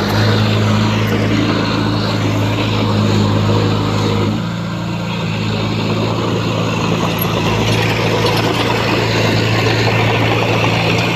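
Heavy diesel engine of a bulldozer running steadily under load. Its note eases off briefly about four seconds in, then picks up again.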